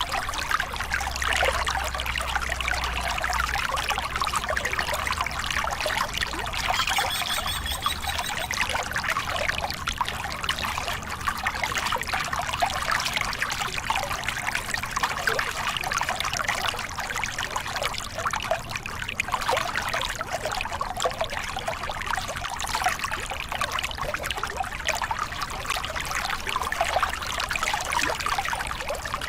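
Water of a small river cascade spilling over rocks, a steady, even rush of splashing and trickling.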